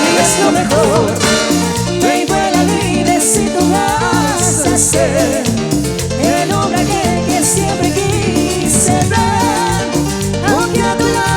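Live Latin tropical dance band music with a steady beat and wavering melody lines over it.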